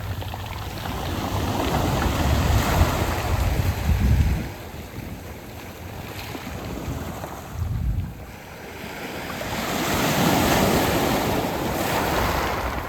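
Waves washing in and out over a round-pebble (mongdol) beach. One surge builds over the first four seconds and falls away to a lull, and another swells from about nine seconds in. Wind on the microphone adds a low rumble.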